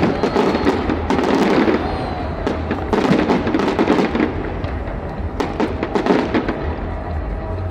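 Fireworks display going off in rapid succession, sharp bangs and dense crackling one on top of another, with music playing along.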